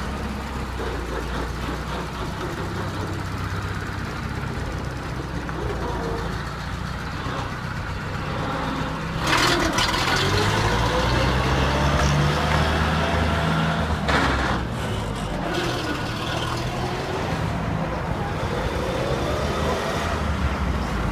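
GAZ-67's rebuilt four-cylinder engine running, louder and rising and falling in pitch in the middle stretch as it is revved. There are two short sharp noises, one about nine seconds in and one about fourteen and a half seconds in.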